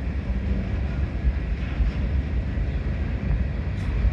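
Norfolk Southern ballast train rolling past, a steady low rumble of the freight cars' wheels on the rails.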